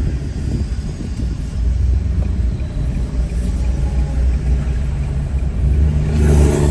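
Low, steady rumble of a car on the move, engine and road noise heard from inside the cabin, swelling near the end.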